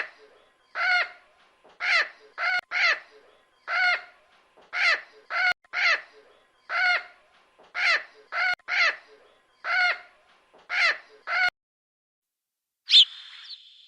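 A bird giving a series of short, harsh calls, about one a second, which stop near the end; just before the end a sudden high, whistle-like sound begins.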